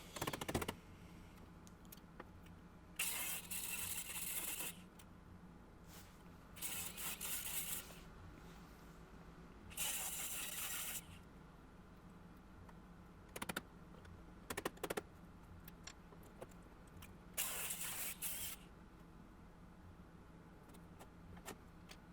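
Four short bursts of grinding against the sheet-metal body panel, each lasting about a second, with a few sharp clicks between them. The grinding takes off paint and filler to expose the panel's spot welds.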